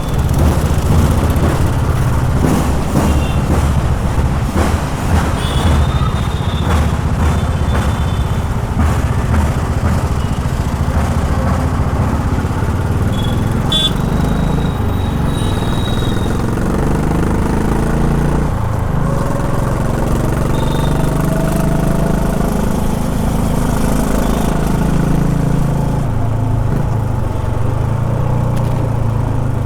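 Honda H'ness CB350's air-cooled single-cylinder engine running in city traffic, its pitch rising and falling as it is revved and shifted through the gears. Several short horn toots sound over it.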